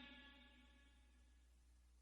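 Near silence: the echoing tail of a man's chanted Quran recitation dies away in the first half second, leaving only a faint low hum.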